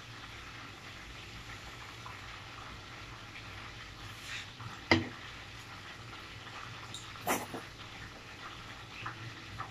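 Chicken frying in oil in a pan on a gas stove, a steady faint sizzle, with a sharp knock about five seconds in and a shorter loud noise a couple of seconds later.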